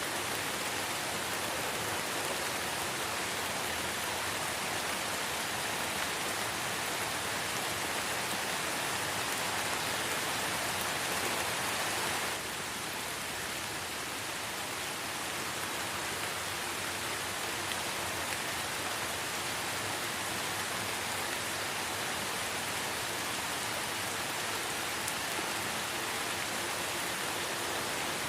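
Light rain falling steadily in a forest, an even hiss of many fine drops. About twelve seconds in, the sound drops suddenly and slightly in loudness, then carries on unchanged.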